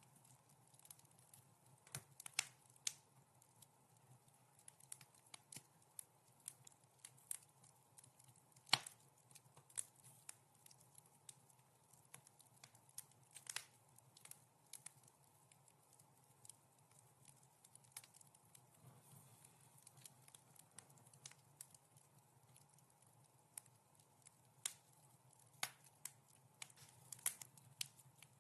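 Wood fire crackling softly: irregular sharp pops and snaps, a few louder than the rest, over a faint steady hiss.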